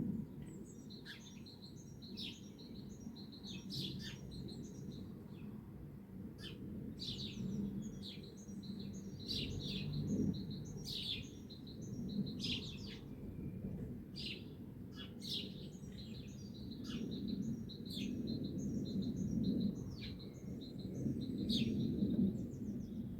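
Several songbirds chirping and singing in a morning chorus, with short, quickly repeated chirps and trills throughout, over a steady low background rumble.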